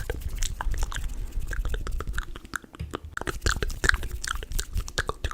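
ASMR mouth sounds close to the microphone: rapid, irregular wet clicks and pops of the lips and tongue.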